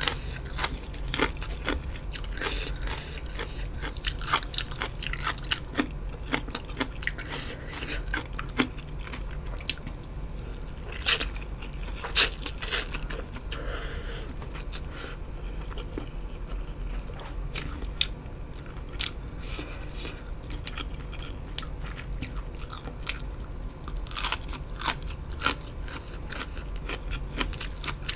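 A person biting and chewing crunchy food: irregular sharp crunches between wet chewing, with the two loudest crunches about halfway through.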